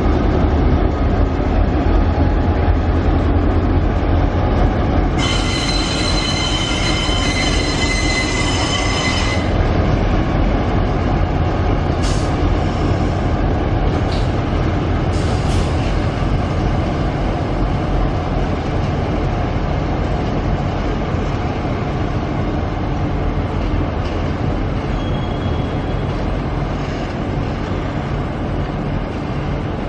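A diesel-hauled passenger train pulling slowly out past the camera: at first the locomotives' low engine rumble. About five seconds in, a high steel wheel squeal is held for some four seconds, then comes in a few short squeals, before the carriages roll by with a steady rumble.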